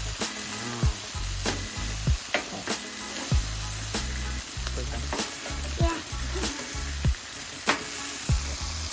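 Meat and kebabs sizzling on a barbecue, a steady frying hiss with sharp ticks about every half second or so.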